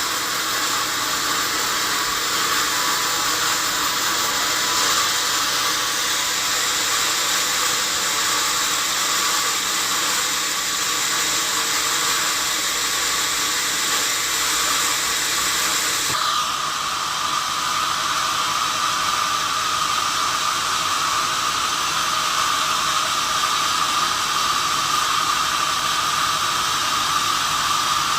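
Sawmill saw running and cutting a log: a steady, loud mechanical whine and hiss. About halfway through, the whine changes abruptly to a different, higher tone.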